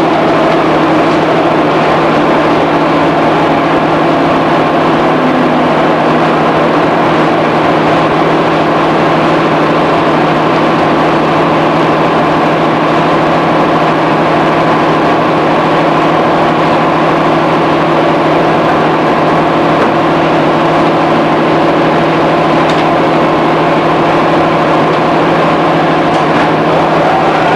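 Interior running sound of a JR 211 series electric multiple unit, heard from inside a motor car: a steady traction motor and gear hum with wheel-on-rail rumble while the train runs at a constant speed. The pitch of the hum shifts slightly near the end.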